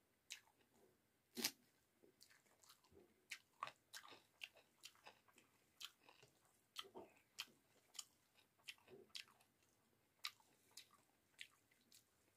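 Faint close-miked eating sounds of a person chewing rice and cauliflower-potato curry: a scattered string of short mouth clicks and smacks, one louder about a second and a half in.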